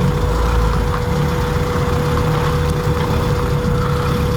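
Car engine running at a slow idle, a steady low rumble.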